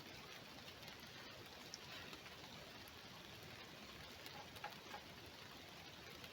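Near silence: a faint steady hiss of outdoor ambience, with a few light scattered ticks about four to five seconds in.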